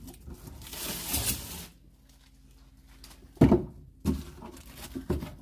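Protective plastic film being peeled off a fridge-freezer panel, a short ripping hiss about a second in. A single sharp thump a little past halfway is the loudest sound, followed by a few light knocks.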